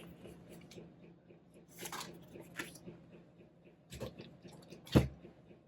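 Craft supplies being handled on a tabletop: a brief rustle about two seconds in, then a soft knock near four seconds and a sharper, louder knock about a second later as something is set down.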